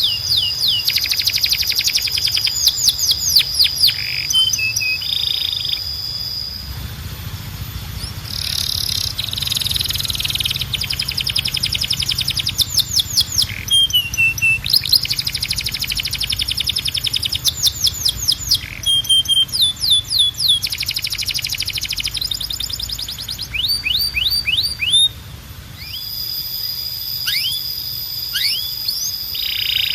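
Domestic canary singing in long rolled phrases: rapid runs of high downward-sweeping whistles alternating with steady, held trills, with short breaks between phrases.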